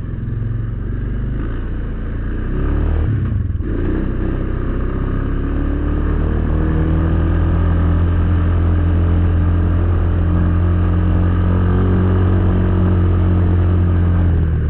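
ATV engine running under way, with a brief dip in the engine note about three seconds in, then holding a strong, steady note that rises slightly.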